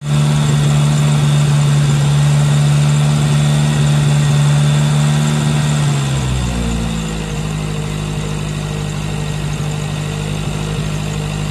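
Toyota 4A-GE 20-valve Silvertop 1.6-litre four-cylinder engine running at a high idle, a fault the owners put down to the ECU. About six seconds in, its pitch and loudness drop a little, then the idle holds steady.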